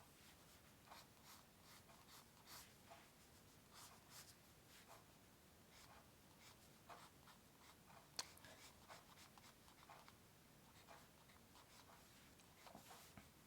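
Faint scratching of a drawing tool on paper in short, irregular strokes, with one sharp tick about eight seconds in.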